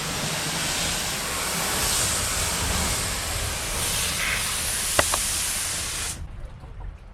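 Water spraying hard from a hose nozzle onto the boat as a steady hiss that cuts off suddenly about six seconds in, with a sharp click just before it stops.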